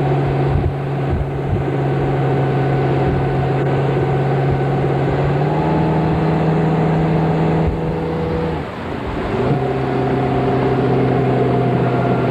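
Motorboat engine running steadily at speed. Its pitch rises slightly about halfway through, drops away briefly and comes back up about three-quarters of the way in, as the throttle is eased off and opened again.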